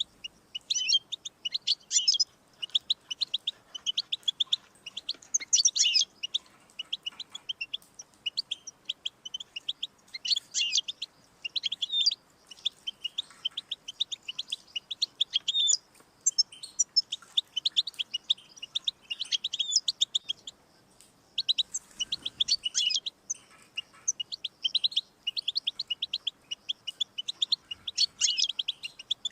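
European goldfinch singing: fast, twittering phrases of short, high notes in long runs, broken by brief pauses.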